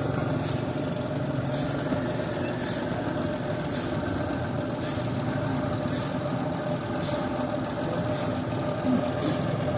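An engine running steadily with a constant hum, and a high hiss that pulses about once a second.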